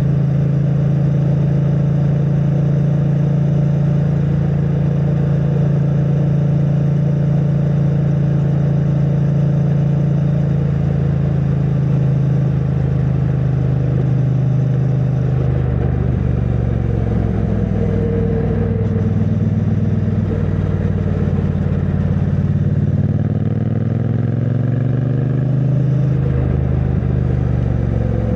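2022 Triumph Bonneville T100's 900 cc parallel-twin engine through its stock exhaust, riding along at a steady engine speed. In the second half the engine note falls and then rises again as the speed changes.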